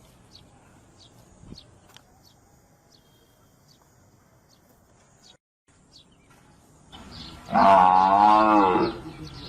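A buffalo gives one loud, wavering bellow of about a second and a half near the end, over faint background with small birds chirping.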